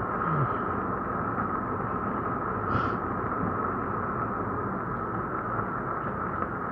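Steady rushing noise inside a car cabin, with no distinct knocks or changes.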